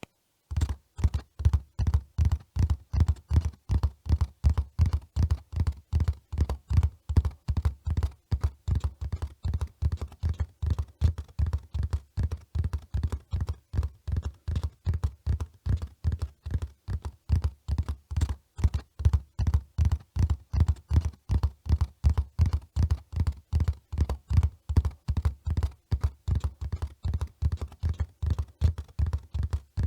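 Hoofbeats of a running horse: a steady, even rhythm of low thuds, about three a second.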